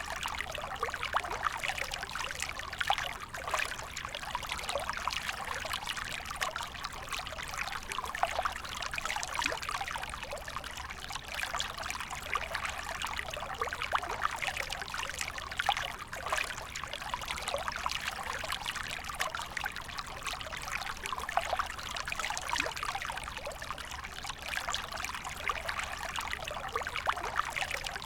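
A small creek trickling and babbling over stones, a steady splashing with many small drips.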